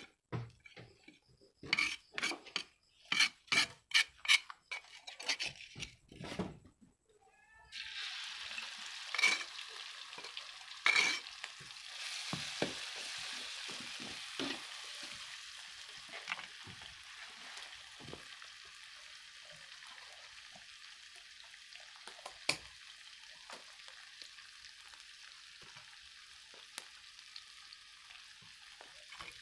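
A run of short, high-pitched calls in the first few seconds. Then, about eight seconds in, a wok of hot oil bursts into loud sizzling as food goes in, and it settles into steady frying that slowly fades.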